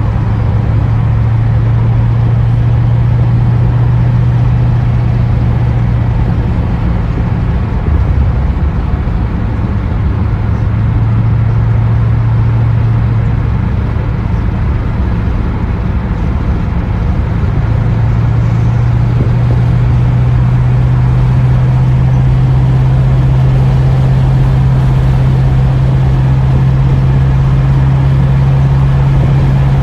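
Classic Ford Mustang's engine and exhaust droning steadily inside the cabin while cruising, over tyre and road noise. The engine note fades briefly about halfway, then comes back a little higher and rises gently toward the end.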